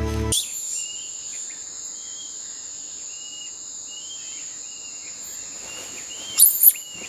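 Forest ambience: a steady high-pitched insect trill with short bird chirps repeating every second or so, and two loud, sharp high chirps about six and a half seconds in.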